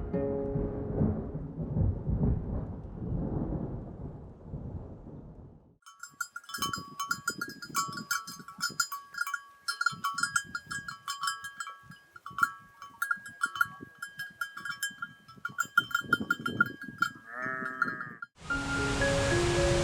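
Soft instrumental music fades out, then a flock's neck bells clink and jangle irregularly for about twelve seconds, with one bleat near the end before music starts again.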